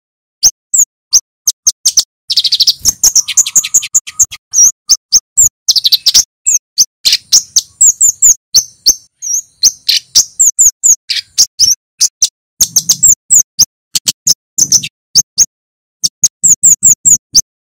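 Male flowerpecker (kemade) calling: sharp, high-pitched 'cit' chips and short trills in quick, irregular runs with brief pauses.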